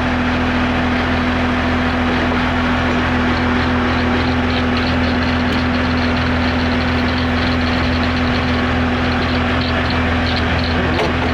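Diesel engine of a large John Deere rubber-tired wheel loader running steadily at idle, a constant deep hum with a steady tone. From about three seconds in, a faint fast high ticking runs alongside it.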